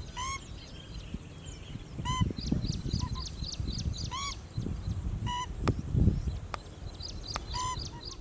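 Pheasant-tailed jacana calling: a short, swooping note with several overtones, repeated about five times a second or two apart. Quicker, higher chirps run throughout, with bursts of low rumbling.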